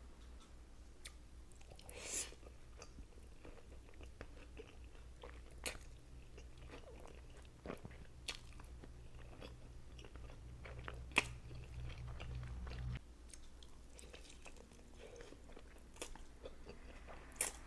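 Close-miked eating: bites into crispy chicken wings and chewing, with sharp crunches and wet mouth clicks at uneven intervals. A low hum runs underneath and cuts off suddenly about two-thirds of the way through.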